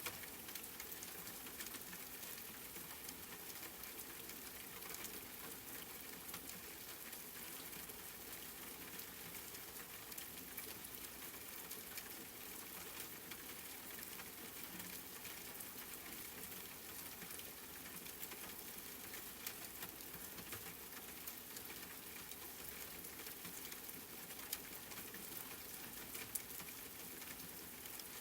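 Steady rain pattering on a surface, with fine drop ticks throughout and a few slightly louder drips near the end.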